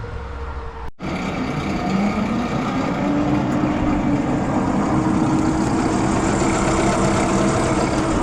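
Truck engine running steadily, with a tone that rises about two seconds in and then holds.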